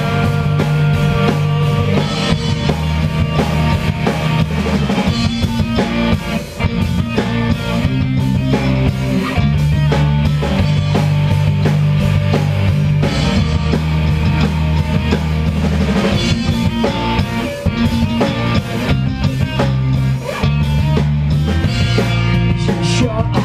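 Instrumental break of a rock song: drum kit, electric guitars and a bass line moving through chord changes every couple of seconds, with no singing.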